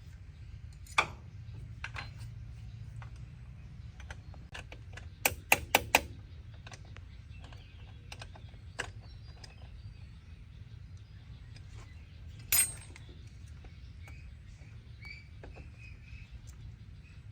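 Scattered sharp clicks and knocks over a low steady hum: a single knock about a second in, a quick run of four about five seconds in, and another one later on.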